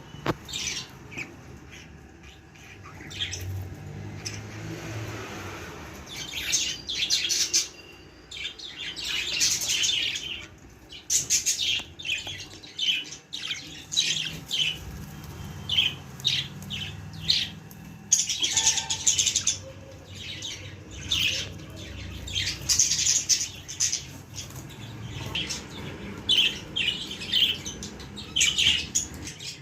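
Budgies chirping and chattering: a stream of short, quick, high-pitched chirps and squawks in busy clusters, with brief pauses between them.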